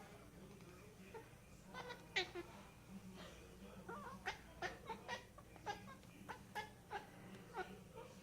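A domestic cat making a series of short, high, pitch-falling calls. A few come scattered at first, then a quick run of about three a second in the second half.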